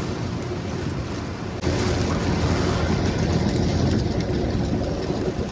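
Steady rain and road noise. About a second and a half in, a loud low rumble sets in abruptly and lasts several seconds.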